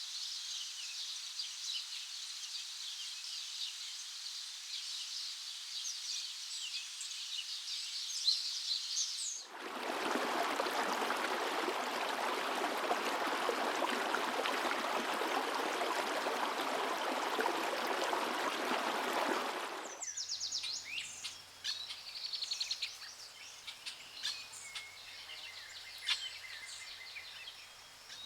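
Dense, high chorus of forest birds, cut suddenly about nine seconds in by about ten seconds of steady rushing water, like a stream or waterfall, which stops just as abruptly. Separate, scattered bird chirps follow.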